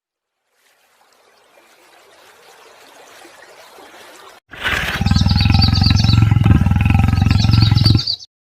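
A large animal giving a deep, loud, pulsing roar or growl for about three and a half seconds, starting a little past the middle. Quick high chirps sound above it near its start and end. Before it there is a faint hiss of background noise.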